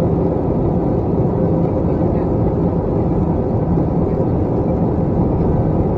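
Steady cabin noise inside an Airbus A321 airliner: the even rumble of the engines and airflow, with a faint steady hum under it.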